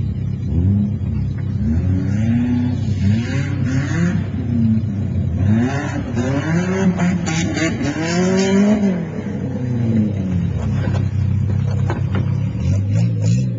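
A car engine is being driven hard, revving up and falling back over and over, about once a second, as the car is thrown around a rough dirt-and-grass course. It settles to a steadier drone near the end.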